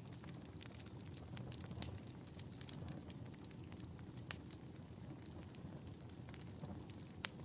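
Wood fire burning in a fireplace: a steady low rush of flames with scattered crackles and pops, the sharpest about four seconds in and near the end.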